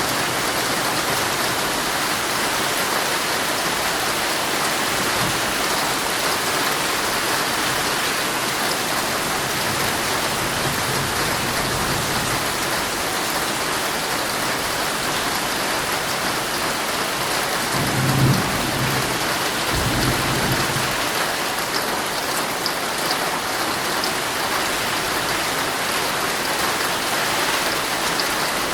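Heavy rain drumming steadily on a tent's fabric. Two short low rumbles of thunder come about two-thirds of the way through.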